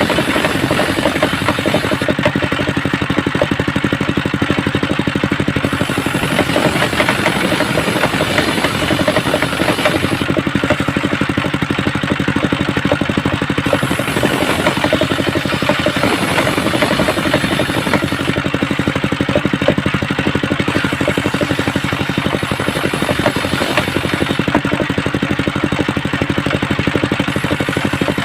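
Engine of a homemade circular saw bench running steadily, its firing pulsing rapidly and evenly.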